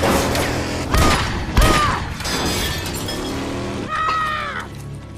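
Action-film crash sound effects: three sharp impacts with shattering glass in the first two seconds, under background music.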